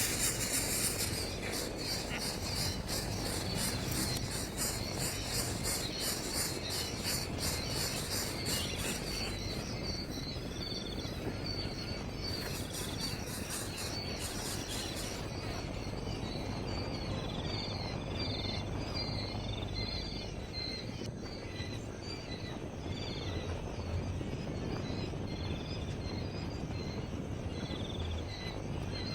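Outdoor ambience: an insect's fast pulsing trill for the first several seconds, then a bird repeating short high chirps, over a steady low rumble.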